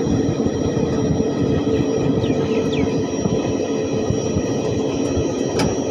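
Running noise of a moving passenger train heard from aboard: a steady rumble of wheels on rails with a droning hum. Two brief high falling squeaks come about two seconds in, and a sharp click near the end.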